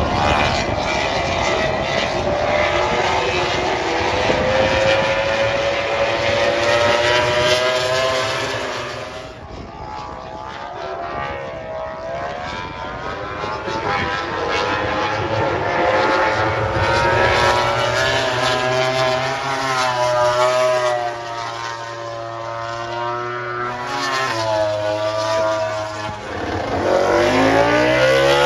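Loud engine sound running throughout, its pitch drifting slowly up and down, dipping in level about ten seconds in and sweeping sharply upward near the end.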